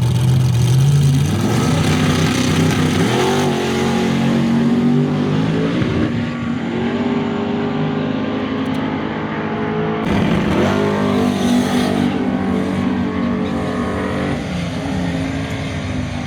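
Drag truck engine at full throttle on a pass, its pitch climbing and levelling off several times as it goes through the gears.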